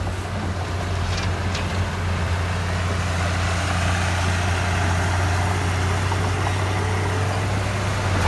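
Heavy diesel engine of earthmoving equipment running steadily at an even, low pitch, with a couple of faint clicks about a second in.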